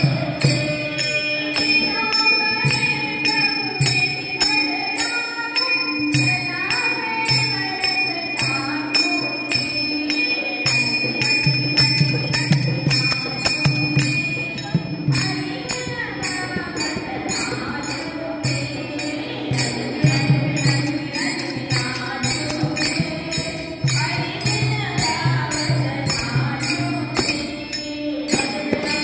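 Marathi devotional bhajan: a woman sings a gaulan to steady clashing of small hand cymbals and a pulsing drum beat.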